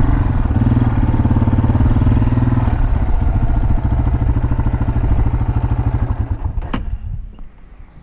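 Dirt bike engine running at low trail speed with a steady note and small throttle changes, then dying away and cutting out about seven seconds in, with a single click as it stops.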